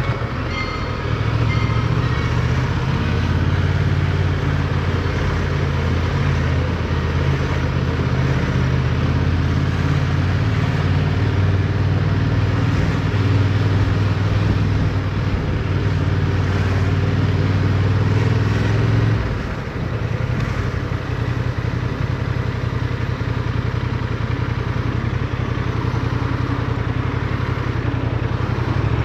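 Motorcycle engine running steadily under way, heard from on board with wind and road noise over it. About two-thirds through, the engine note drops briefly, as with easing off the throttle or a gear change, then settles back to a steady run.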